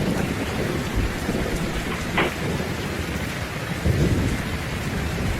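Rainstorm with gusting wind: a steady rush of rain over a low rumble, swelling briefly louder a few times.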